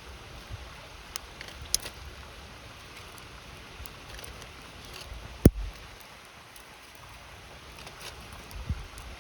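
Wood campfire crackling, with a few sharp pops; the loudest comes about halfway through. A river rushes steadily underneath.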